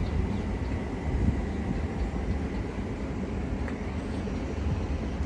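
London Overground Class 378 electric multiple unit pulling away from the platform: a steady low rumble, with a faint high whine in the first half.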